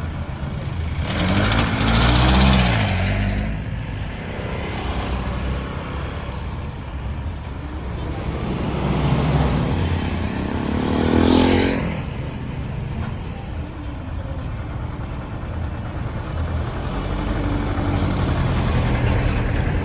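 Road traffic: a steady low engine rumble, with vehicles passing close by. The loudest passes come about two seconds in and again around eleven seconds, with engine note and tyre noise swelling and fading.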